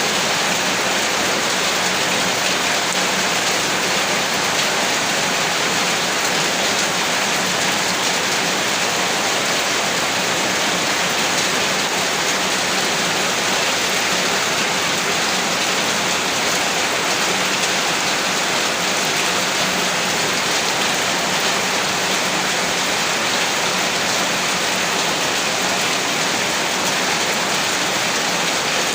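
Heavy rain falling steadily, a dense even hiss of drops with no breaks or distinct impacts.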